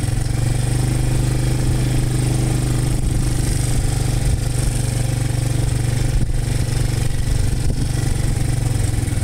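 Small engine running steadily at an even speed, its low note unchanged throughout.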